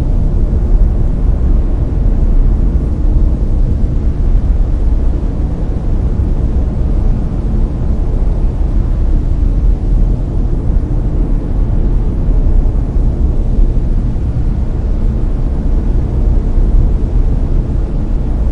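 Layered brown noise: a steady, deep rumbling hiss, strongest in the bass and fading toward the treble, with no change or events.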